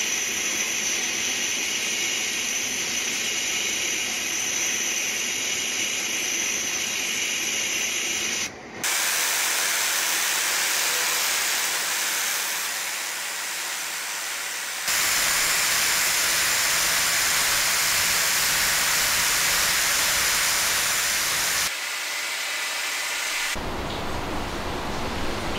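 Steady hiss of compressed air from a spray or blast nozzle, in several stretches that change abruptly in tone and loudness.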